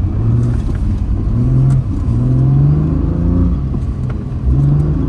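Car engine accelerating in a series of short pulls, its pitch rising during each one.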